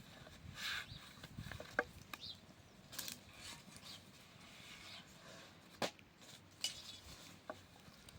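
Scattered light clicks and knocks, about half a dozen spread through, with a short scraping rub just under a second in.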